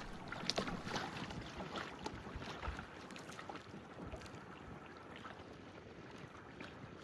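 Faint water lapping with wind on the microphone, and small splashes and ticks in the first few seconds before it settles quieter.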